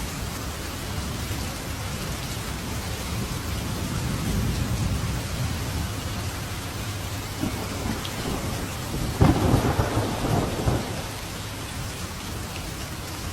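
Thunderstorm: steady rain with low rumbling thunder. About nine seconds in, a louder crack of thunder rolls away over a second or two.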